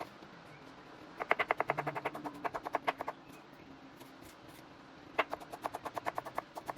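Two runs of rapid, sharp clicking or tapping, about ten strokes a second, the first lasting about two seconds and the second starting about five seconds in.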